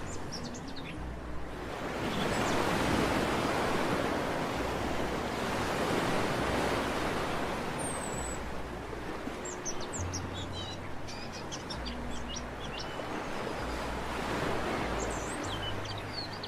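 Sea surf washing ashore in slow swells, with small birds chirping short, high calls over it: a few at the start, a cluster in the middle, and more near the end.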